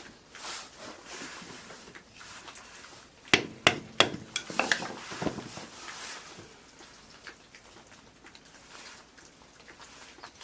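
Three sharp knocks in quick succession a little over three seconds in, followed by a few lighter clattering knocks.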